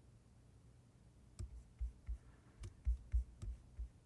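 Scattered clicks of a computer keyboard and mouse, starting about a second and a half in, about seven in quick succession.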